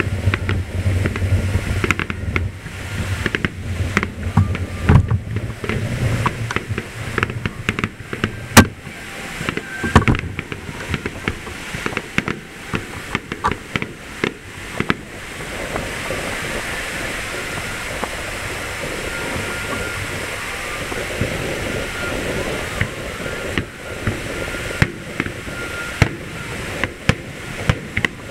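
Aerial fireworks shells bursting in quick succession as a finale barrage, many booms and bangs with the loudest about eight and a half seconds in. About halfway through the bangs thin out into a steady rushing noise, and a few more bangs come near the end.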